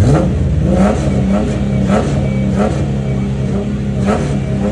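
Car engine idling and being revved in several short blips, its pitch sweeping up and dropping back each time.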